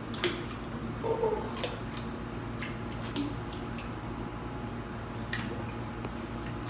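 Sticky homemade slime squishing and dripping, a string of irregular wet clicks and squelches over a steady low hum.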